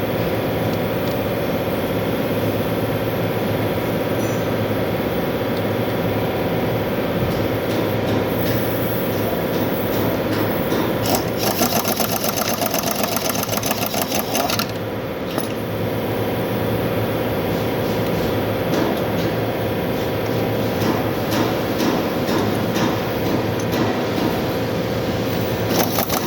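Machinery running with a steady high hum, with a faster clattering layered on between about eleven and fourteen seconds in.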